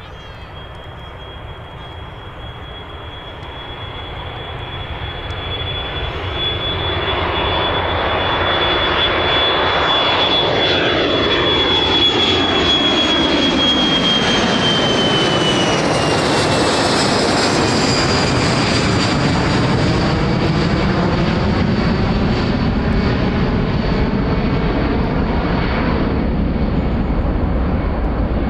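Boeing 737-300's CFM56 jet engines at takeoff power, growing louder over the first several seconds, their high whine dropping in pitch about halfway through as the aircraft goes past, then a steady loud rumble.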